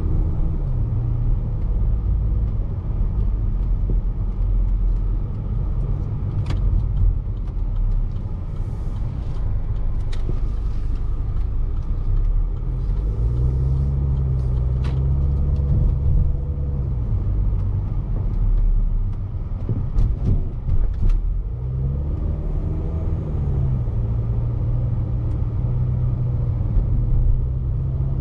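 Range Rover Evoque's 2.0-litre turbo four-cylinder petrol engine running under way with heavy road and tyre rumble, heard from inside the cabin. The engine note rises and eases a few times, and several sharp knocks come through as the car goes over bumps.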